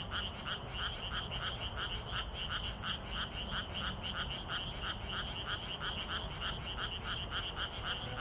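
Frog chorus: many frogs calling together in a dense, continuous chorus, with one pulsed croak repeating steadily about three times a second.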